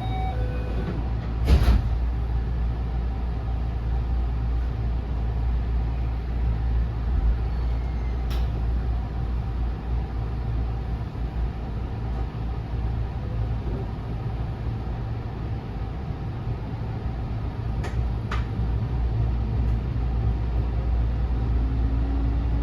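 Inside a JR West 207 series electric commuter train's unpowered trailer car: a steady low rumble, with a loud sharp knock about a second and a half in and a few lighter clicks later. Near the end a faint rising whine begins.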